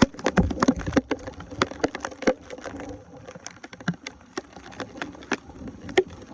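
Water splashing with many irregular clicks and knocks as debris is worked loose from a clogged drain.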